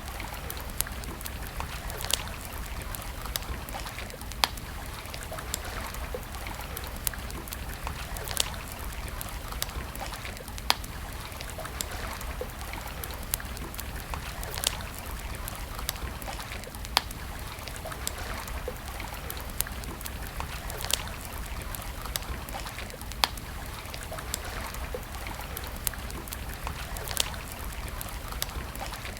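Wood campfire crackling, with sharp pops at irregular intervals every second or two, over a steady background of trickling, running water.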